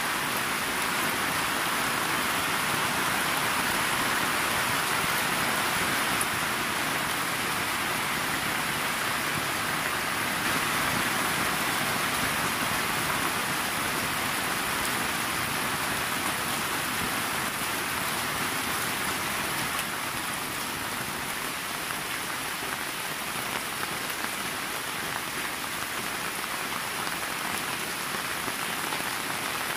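Heavy rain falling steadily on leaves and floodwater: a dense, even hiss with no let-up.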